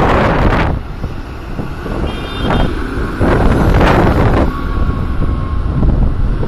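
Tractor engines running steadily, with gusts of wind buffeting the microphone. There is a brief high beep about two seconds in.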